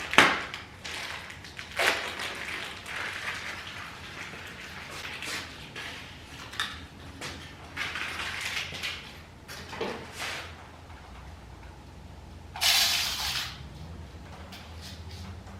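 Handling noises of a flux-core welding wire spool being unwrapped and fitted into a MIG welder: scattered clicks, light knocks and rustling. A brief, louder rustle comes near the end.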